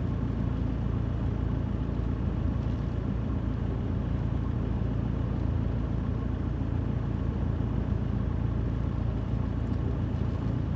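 Steady low rumble inside a parked car: the idling engine's hum mixed with strong wind pressing on the car.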